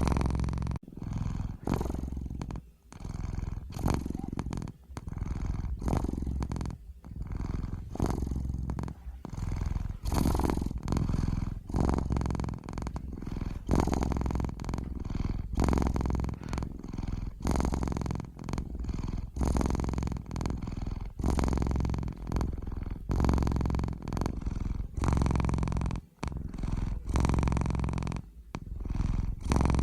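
Domestic cat purring: a low rumble in breath-long stretches of about a second, with brief breaks between breaths.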